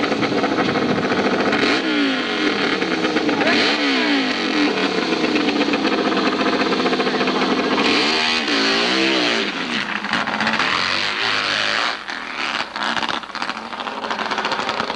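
Hillclimb race motorcycle engine running hard at high revs, its pitch swinging up and down again and again as the throttle and load change. The engine note drops off and turns uneven about three-quarters of the way through.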